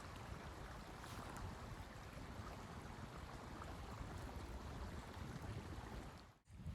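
Steady blizzard wind, a low rumble with a hiss above it, cutting out briefly near the end.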